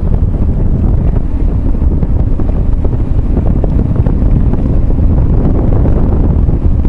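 Steady wind rush on the microphone of a moving motorcycle, with the engine and road noise low underneath.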